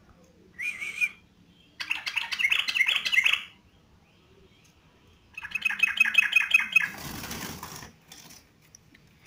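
Yellow-vented bulbul (trucuk) singing in three bursts of fast, chattering notes, the second and third phrases long and busy. This is followed by about a second of rustling noise.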